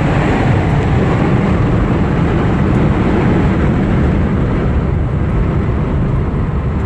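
Steady cabin noise of a 1956 Ford Thunderbird under way: a low rumble of the 312 V8, tyres and wind around the convertible top.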